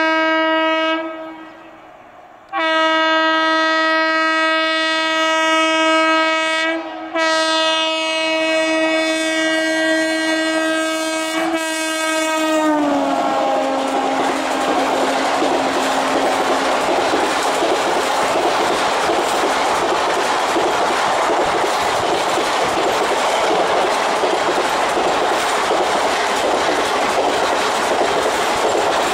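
An Indian Railways WAP-4 electric locomotive's horn sounds a short blast, then a long blast of about ten seconds that drops in pitch as the locomotive passes. The horn is followed by the steady rush and clickety-clack of express coaches going by at speed.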